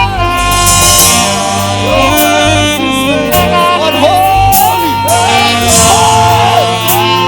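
Live gospel worship music from a band and choir: a long held melody note for the first few seconds, then melodic phrases gliding up and down in pitch, over a steady accompaniment.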